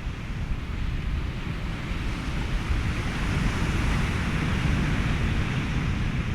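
Ocean surf and wind blended with steady white noise, with a low rumble underneath; a wave swells and washes in about halfway through, then eases slightly near the end.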